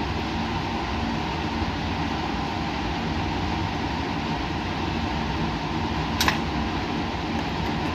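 Steady whirring hum of laboratory fans, with a single short, sharp click about six seconds in.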